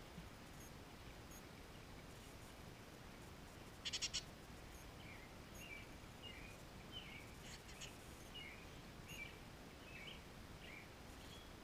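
Faint bird chirps, short high notes scattered through the second half. About four seconds in, a quick run of four sharp clicks is the loudest sound.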